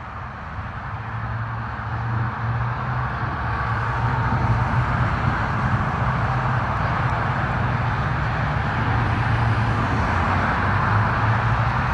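Road traffic: a steady rush of tyres and engines with a low engine hum underneath, swelling over the first few seconds and then holding steady.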